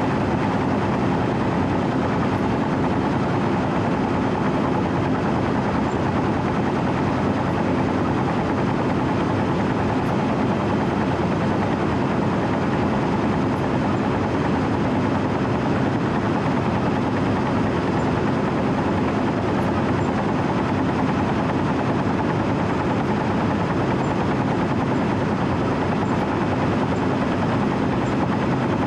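Diesel engine of a Wirtgen W 120 CFi cold milling machine running steadily, heard from the operator's position as an even drone.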